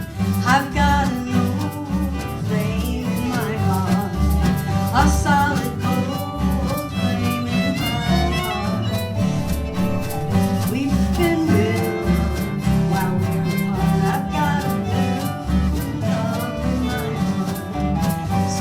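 Acoustic folk band playing an instrumental break in a slow country song: a lead melody with sliding notes over steady, pulsing bass notes and chordal accompaniment.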